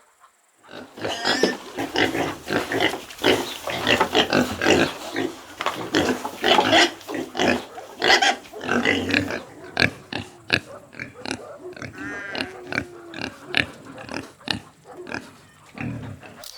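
Pig grunting and oinking in rapid, rough bursts, with a brief higher squeal about three-quarters of the way through.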